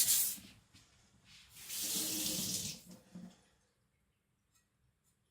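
A last scrape of the cleaver's blade on the whetstone, then about a second of running water, ending with a light knock.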